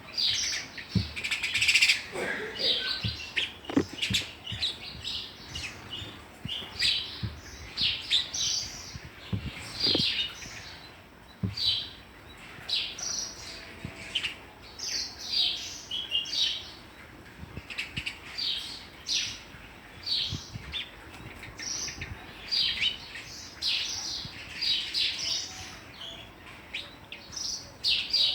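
Sparrows chirping, a steady stream of short, quick chirps from several birds, with a few light taps among them.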